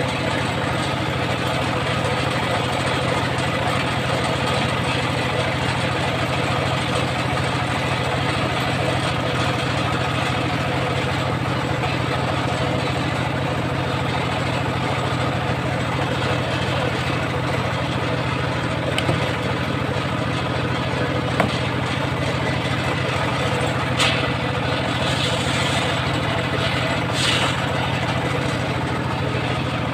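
Engine of a home-built circular sawmill rig running steadily at an even speed, with a few brief clicks in the second half.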